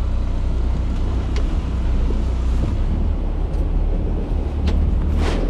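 Fishing boat's engine running steadily as a low hum, with wind buffeting the microphone. A few light knocks come through, and there is a short louder rush of noise near the end.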